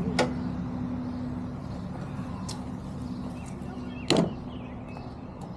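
Light metallic clicks of hand tools on car parts, with one sharper clank about four seconds in, over a steady low mechanical hum.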